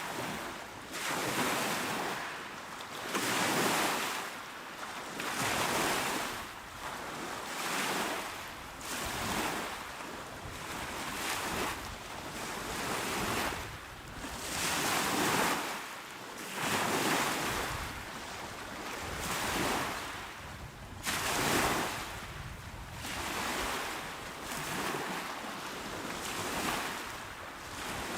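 Small, calm waves breaking and washing onto a shore: a hissing wash that swells and fades about every two seconds.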